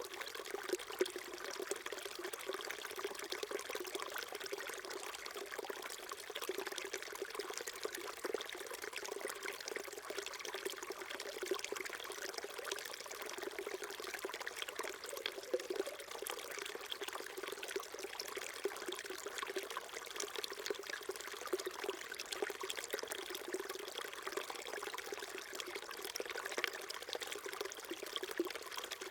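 A small shallow stream flowing and trickling steadily over rocks, a continuous burbling with small splashes.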